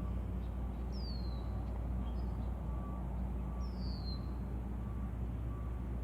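Steady low rumble of distant traffic with a faint beeping that repeats at a regular pace, and a bird giving a short, high, falling call twice.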